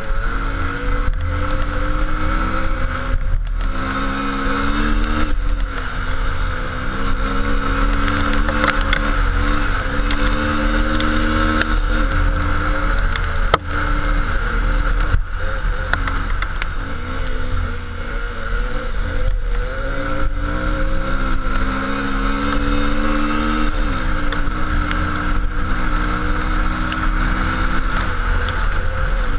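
A vehicle engine running under load, its pitch rising and falling several times with the revs, over a steady low rumble, with a few short knocks.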